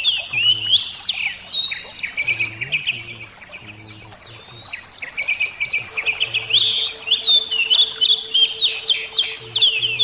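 Oriental magpie-robin (kacer) singing: fast, varied high chattering phrases and whistles, with a short lull in the middle of the song.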